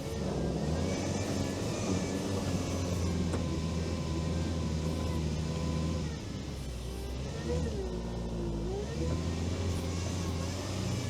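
All-terrain vehicle's engine running steadily while driving off-road, with a thin steady whine above the engine note. About two-thirds of the way through, the engine note drops and then comes back up.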